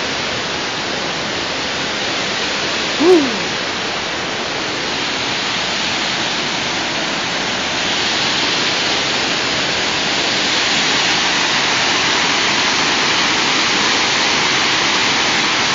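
Waterfall: a steady, even rush of falling water, growing a little louder about halfway through. A short falling vocal sound rises above it about three seconds in.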